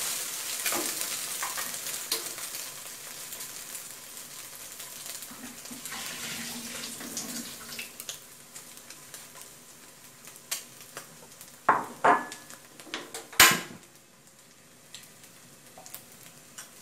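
Eggs frying in hot oil in a wok, sizzling and scraped with a spatula at first, the sizzle slowly dying down as they set. A few sharp clinks and knocks of cookware come near the end, the loudest about 13 seconds in.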